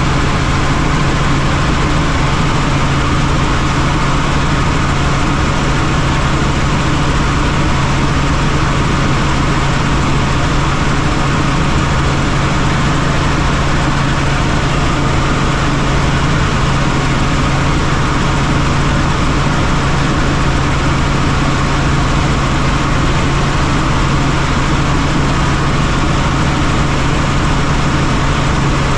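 Helicopter in flight: a loud, steady drone of engine and rotor noise with a low hum underneath, unchanging throughout.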